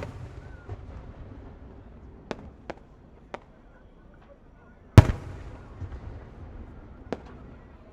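Aerial firework shells fired one at a time and bursting: a loud boom right at the start and another about five seconds in, each trailing off in a rolling rumble, with several smaller sharp pops in between.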